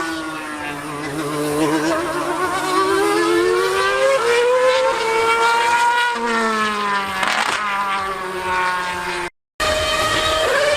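High-revving racing engines screaming, the pitch sliding down and then climbing again. A second, lower engine note joins about six seconds in. The sound drops out for a moment near the end.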